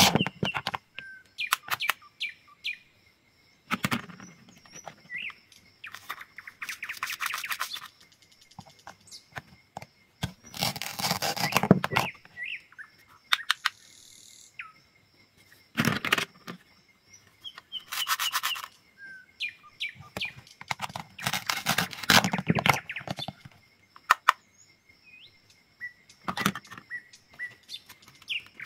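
Knife cutting strokes, a dozen or so separate cuts, each a short crackly burst lasting up to about two seconds with pauses between. Birds chirp faintly and steadily in the background.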